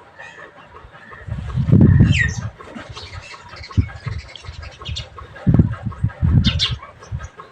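Birds calling, with a squawk that falls in pitch about two seconds in and another sharp call near the end. Low rumbling gusts, the loudest sound, come twice.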